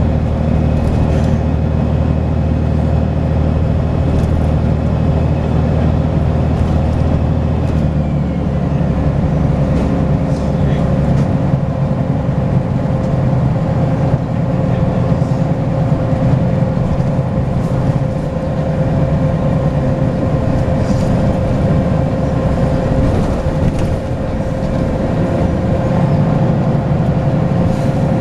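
Volvo B10BLE bus's turbocharged six-cylinder diesel engine pulling, with a high steady turbo whistle over the engine note; about eight seconds in the whistle slides down and fades as the engine note changes, and the engine and road noise carry on.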